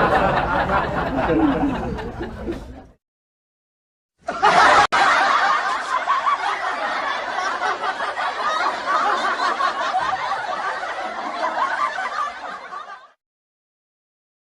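Laughter sound effects: one laugh cuts off about three seconds in, and after a short silence a second, longer laugh runs for about nine seconds before stopping abruptly.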